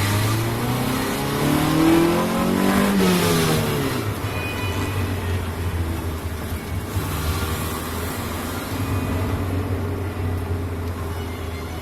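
The Honda Civic's 1.6 L SOHC four-cylinder engine, fitted with a race header and short ram air intake, revs up under acceleration. Its pitch climbs for about two seconds, then drops off, and it settles into a steady low drone.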